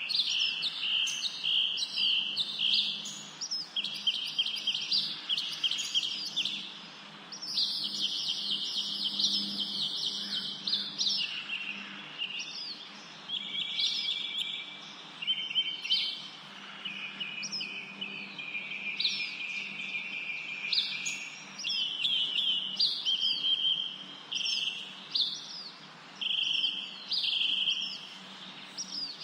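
Several songbirds chirping and singing at once, a continuous overlapping chorus of quick trills and short sweeping notes.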